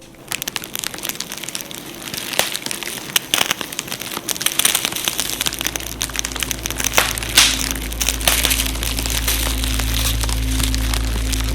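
Wood fire crackling with frequent sharp snaps and pops. Low, steady background music tones fade in from about halfway.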